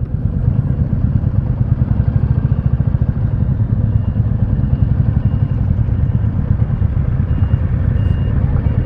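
Royal Enfield Classic 350's single-cylinder engine running steadily, its fast, even firing pulses heavy in the low end. A faint high beep repeats about twice a second from midway on.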